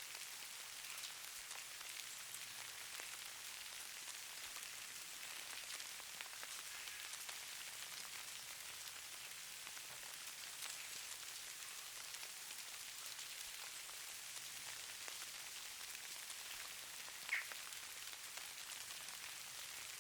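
Steady fine pattering hiss of falling snow on surfaces, made of many tiny ticks. There is one brief high chirp about 17 seconds in.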